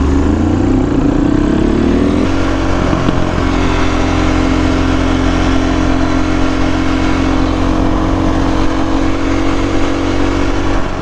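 Vehicle engine accelerating, its pitch rising for about two seconds before an upshift, then running at a steady pitch while cruising.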